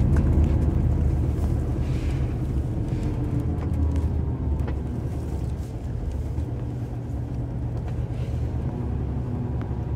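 Steady low engine and road rumble heard from inside a moving vehicle, with a faint even engine hum and a few light knocks.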